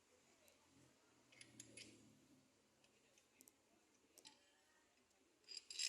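Faint, scattered clicks and light clinks of hand tools and metal parts, with a louder cluster of clicks near the end.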